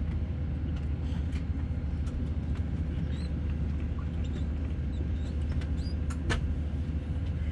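Steady low hum inside a parked Airbus A319's cabin, with scattered light clicks and small squeaks from the cabin; a sharper click comes about six seconds in.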